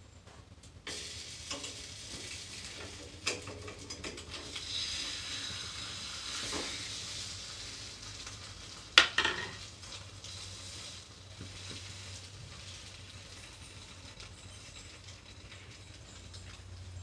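Egg-dipped bread frying in oil in a pan, sizzling steadily from about a second in, with small spatula scrapes and taps against the pan and one sharp knock about nine seconds in.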